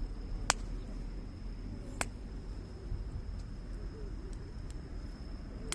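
Wood fire burning in a fire pit: a steady low rumble with sharp crackling pops, the loudest about half a second in and another about two seconds in, and fainter ticks between.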